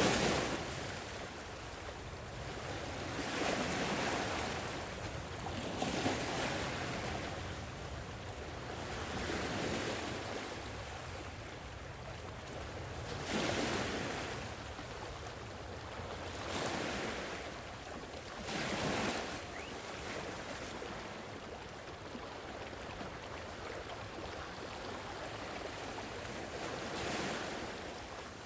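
Gentle sea waves washing in, each swell of surf rising and falling over a couple of seconds, one every few seconds, with a quieter lull late on.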